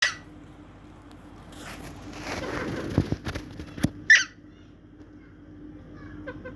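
Pet parrot squawking: a short harsh squawk at the start and a louder one about four seconds in. Between them come rustling and scuffling with a few sharp knocks, and soft chirps near the end.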